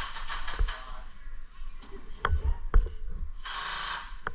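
A few sharp mechanical clicks over faint rustling, with a brief hiss about three and a half seconds in.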